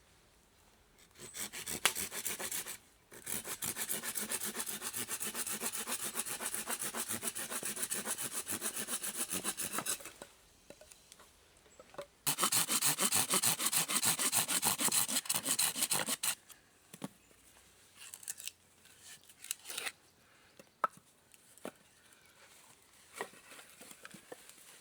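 A hand tool working wood in rapid, even strokes: one long run of several seconds, a short pause, then a second run of about four seconds, followed by scattered knocks and clicks.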